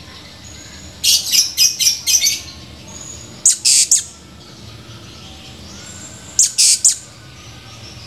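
Blue-crowned hanging parrot (serindit) calling in shrill, high chirps: a quick run of about six notes about a second in, then shorter runs of three or four notes about three and a half and six and a half seconds in.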